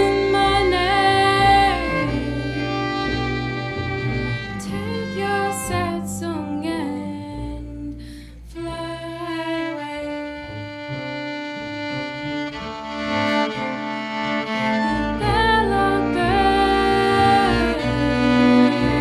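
Slow, sad instrumental passage of guitar and double bass, with the bass played with a bow in sliding, wavering lines.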